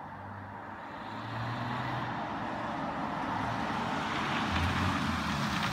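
BMW F10 525d's tuned 3.0-litre turbodiesel straight-six with a straight-piped exhaust, approaching under way and growing louder, with a deep engine note under a rising exhaust roar.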